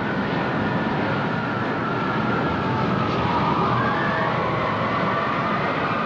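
Steady rushing noise with a faint wailing tone over it that wavers and slides upward about halfway through.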